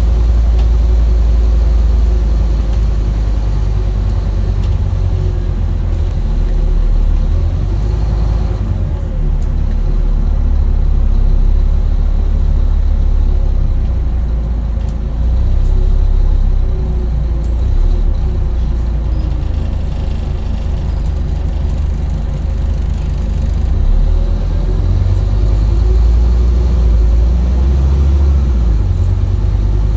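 Scania N230UD double-decker bus's diesel engine running as the bus drives. Its pitch rises and falls several times as it pulls away, changes gear and eases off.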